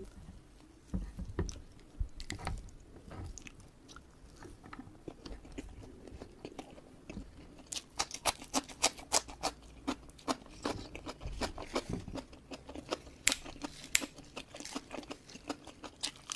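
Close-miked closed-mouth chewing of a mouthful of food eaten by hand, with a few soft handling thuds early on and, from about halfway, a quick run of crisp, crunchy bites.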